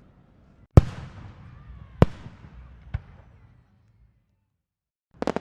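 Three fireworks bursting about a second apart, the first the loudest, each trailing off in an echoing rumble. Near the end a rapid run of crackling firecracker pops begins.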